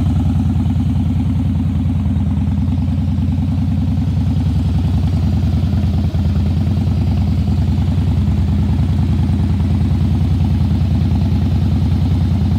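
2008 Harley-Davidson Fat Boy's air-cooled Twin Cam 96 V-twin idling steadily, a low, even run of firing pulses.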